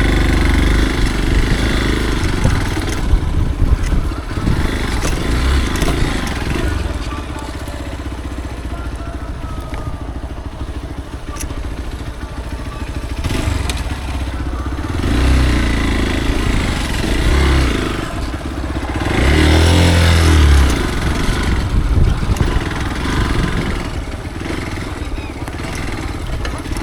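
Motorcycle engine running on a rough trail, swelling louder twice, past the middle and again about three-quarters through.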